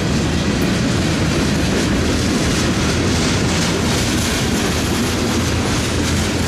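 Freight cars of a passing train (a tank car, then covered hoppers) rolling by close, a steady rumble of steel wheels on the rails.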